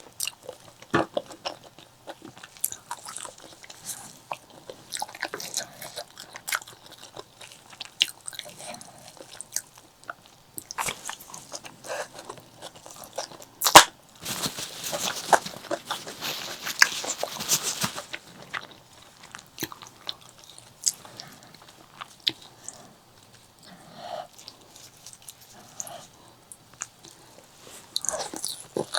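Close-miked eating: chewing and biting spicy pork leg, with many wet mouth clicks. About halfway through there is one sharp loud snap, then about four seconds of dense crackling chewing.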